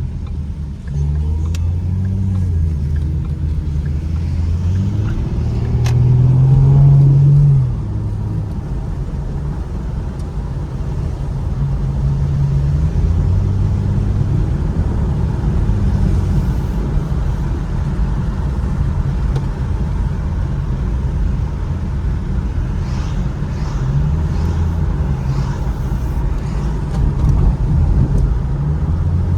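Ford Mustang's engine heard from inside the car while driving on a wet road, its note rising and falling with the throttle over a steady rumble of road and tyre noise. About five seconds in, a hard pull builds to the loudest point and cuts off abruptly a couple of seconds later.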